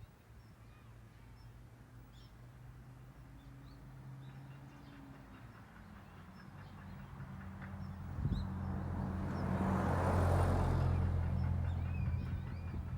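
A motor vehicle passing close by: its engine hum and tyre rush swell from about halfway through, peak about ten seconds in, then ease off. Small birds chirp faintly throughout.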